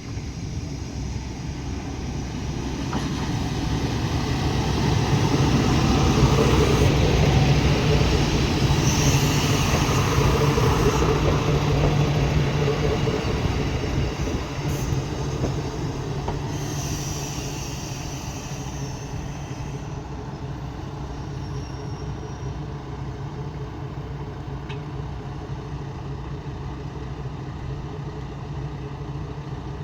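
Shimabara Railway diesel railcar running on the track with a steady low hum and rumble. Its sound swells to a peak about a third of the way in, then falls back to a steady level.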